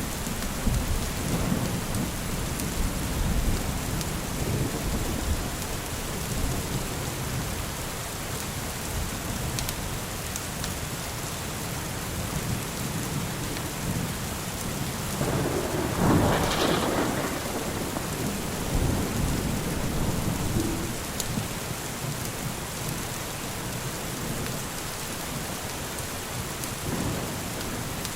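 Steady rain with low rolling thunder rumbling underneath, and a louder, sharper thunder crash a little past halfway.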